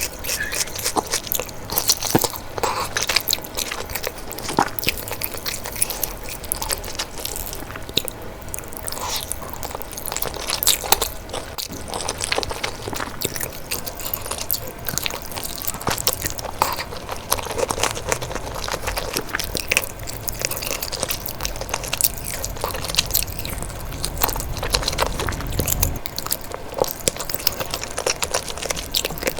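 Close-miked eating: a person biting and chewing food, with many small crunches and crackles.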